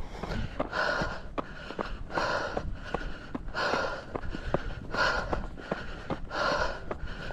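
A trail runner's heavy breathing on a steep uphill climb, one loud breath about every second and a half, with footsteps ticking between the breaths.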